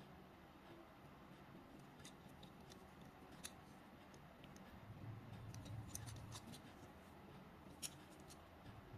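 Faint scattered clicks and light taps of small hard objects being handled, with a low hum for a second or so partway through.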